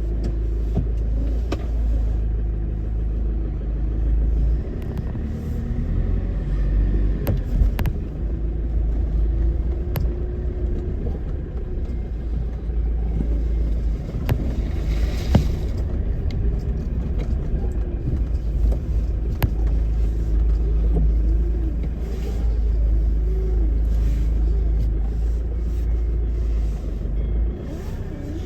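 Car engine running with a steady deep rumble, its pitch wavering slightly, with a few sharp clicks.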